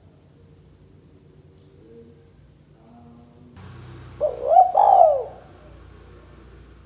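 Spotted dove (tekukur) cooing: a short phrase of about three rising-and-falling coos about four seconds in, after fainter low coos.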